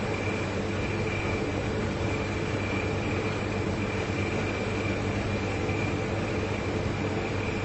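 Two large refrigerators running, with a steady compressor hum and a thin constant whine above it.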